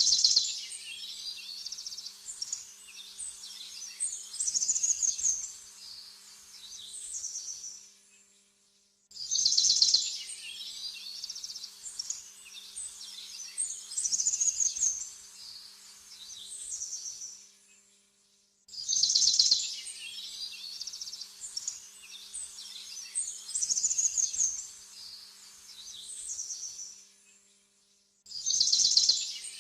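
Songbirds chirping and singing in rapid high phrases, with a faint steady hum beneath. The same stretch of birdsong repeats as a loop about every nine and a half seconds, each pass starting loud and cutting off abruptly.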